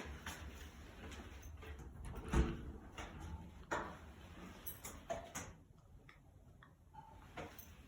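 Scattered knocks and clicks in a small, bare room over a low rumble, with the loudest thump about two and a half seconds in, like doors or fittings being handled.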